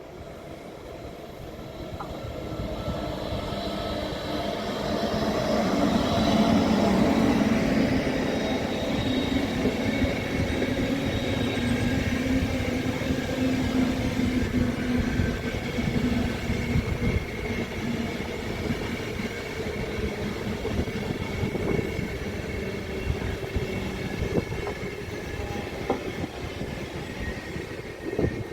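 A train running through the station, growing louder over the first several seconds and then holding steady, with a steady whine from its drive over the rumble of the wheels.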